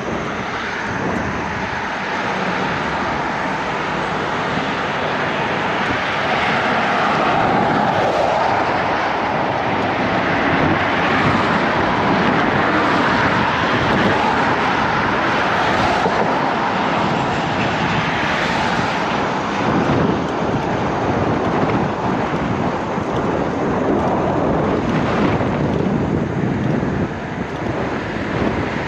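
Jet airliner passing low overhead, its engine rush swelling over several seconds and then staying loud, with a faint steady whine in the first few seconds.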